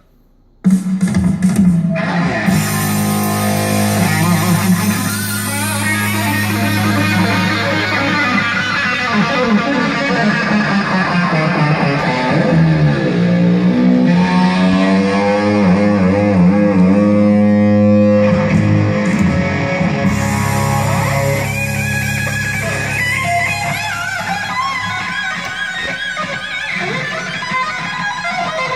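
Rock music with electric guitar and bass played through small bookshelf speakers driven by a Yamaha RX-1100U stereo receiver. There is a brief gap of about half a second right at the start before the music comes back in.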